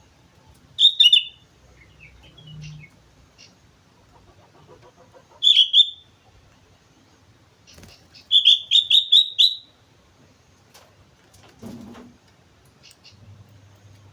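Sooty-headed bulbul (kutilang) singing: three loud short phrases of bright, bubbly notes, the last a quick run of about six notes, with a few faint notes between them.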